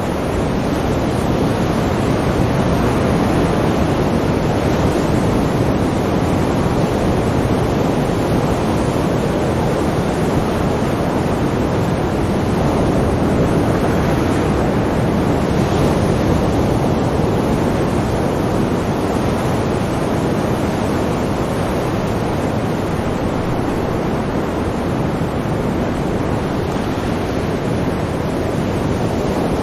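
Sea waves: a steady wash of surf that swells and eases slightly over the span.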